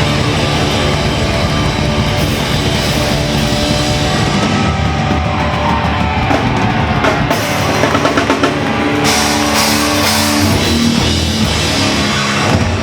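Hardcore band playing live: distorted electric guitars over a pounding drum kit, loud and dense.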